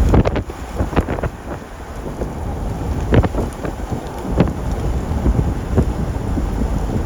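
Strong wind buffeting the vehicle and the microphone, with scattered sharp knocks of hailstones striking the vehicle, several clustered about a second and three seconds in.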